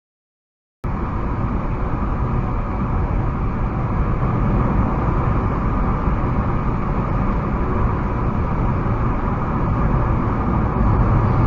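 Silence, then from about a second in the steady drone of a car's engine and tyres on the road, heard from inside the cabin.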